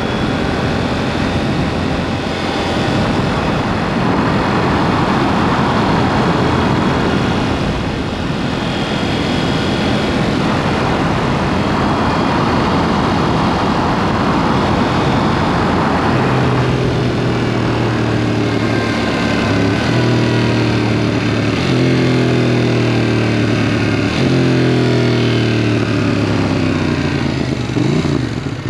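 KTM 790 Duke parallel-twin engine with an aftermarket SpeedPro exhaust, under way on the road. For the first half, rushing ride noise mostly covers the engine. From about halfway the engine note comes up clearly, rising again and again and stepping back down each time, as the bike accelerates through the gears.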